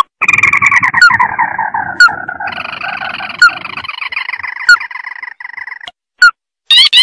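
Recorded calls of a red-eyed crake (burung tikusan mata merah) played as a bird lure: a long, rapid rattling trill that sags a little in pitch, steps up about two and a half seconds in and stops near six seconds. Short sharp chirps repeat roughly every second over it, with another burst of notes at the very end.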